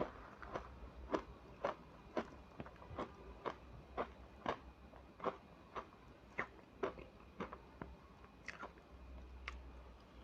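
Close-up crunching of ice being bitten and chewed, with sharp cracks about twice a second that grow sparser near the end.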